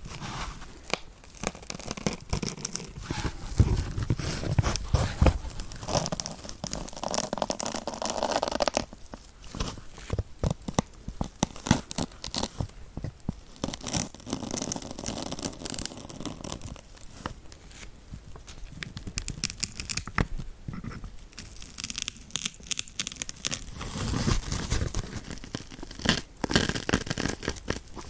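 Needles being pushed into a kitchen dish sponge close to the microphone: an irregular crackle of many small clicks and scrunches.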